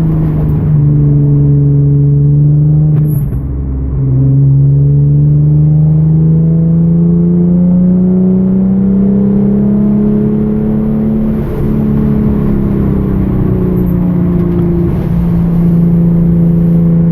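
2013 Hyundai Genesis Coupe's 3.8-litre V6 at speed on track. The engine note dips briefly about three seconds in as the throttle comes off, then climbs steadily under power for about seven seconds. It eases down a little and settles to a steady pitch near the end.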